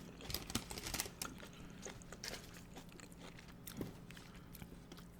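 Someone chewing a mouthful of loaded nachos, with soft scattered crunches of tortilla chips.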